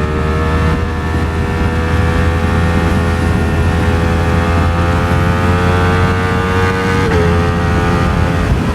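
Ducati Streetfighter V4 S's 1103 cc V4 engine running at a steady cruise. Its pitch creeps up slowly and dips briefly about seven seconds in, over a low rumble of wind.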